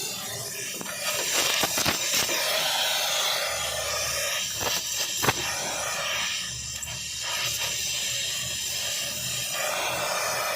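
Steady hiss of compressed air, such as a spray gun or air blow gun in car body panel repair, with a few short scrapes and clicks about a second in and again around five seconds in.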